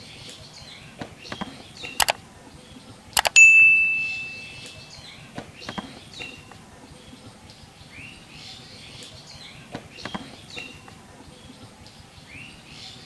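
Small birds chirping in the background. About two seconds in come two sharp clicks, and a second later a loud metallic ding that rings out and fades over a second or so.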